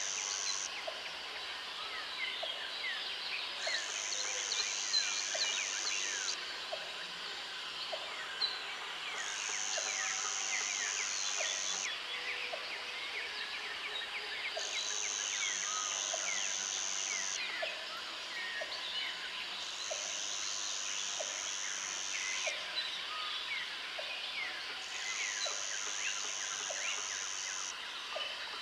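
Jungle ambience: a dense chorus of many birds chirping and calling, with an insect trilling high in bursts of about three seconds, roughly every five seconds. A faint regular tick about once a second runs underneath.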